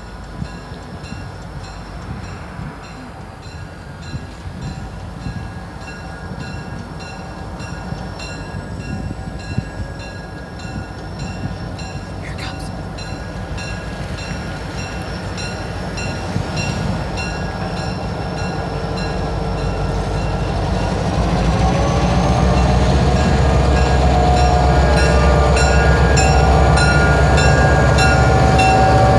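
Freight train's diesel locomotives approaching and passing close, the engine noise growing steadily louder into a heavy low rumble over the last third.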